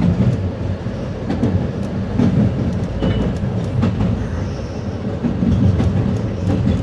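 Commuter train cab car rolling through switches, heard from inside: a steady low rumble with irregular sharp clacks as the wheels cross rail joints and switch frogs, and a brief high squeal about three seconds in.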